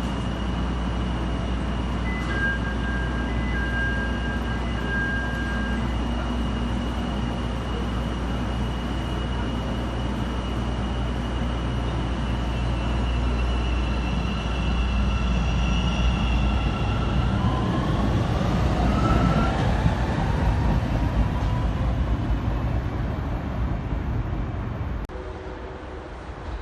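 CTA 5000-series rapid transit train running through the station: a steady low rumble with motor whines, one of which rises in pitch as the train picks up speed. The sound grows louder toward the middle, then drops off suddenly near the end.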